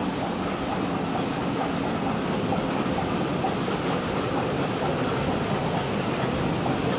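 SYF-16 wet wipes making machine running steadily: a continuous mechanical noise with faint ticks about once a second.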